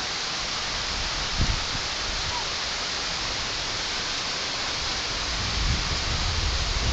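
Heavy rain falling steadily, a dense even hiss. Low rumbles break through about a second and a half in and again near the end.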